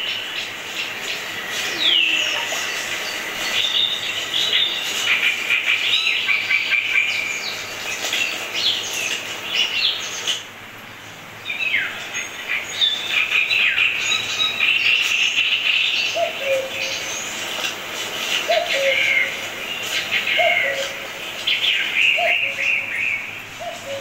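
Several birds chirping and calling, many short high notes and trills overlapping, with a brief lull a little before halfway. In the second half a lower call repeats about once a second beneath the chirping.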